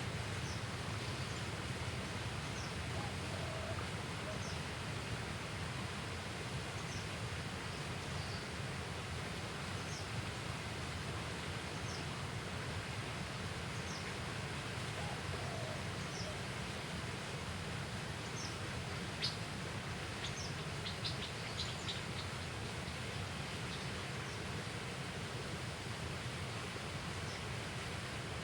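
Outdoor riverside ambience: a steady background hiss with a short high chirp repeating every couple of seconds, and a few sharp clicks about twenty seconds in.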